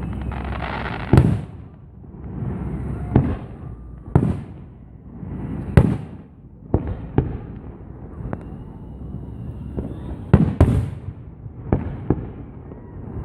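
Fireworks display going off: about eight sharp bangs a second or two apart, two of them close together near the end, with hissing between the bursts.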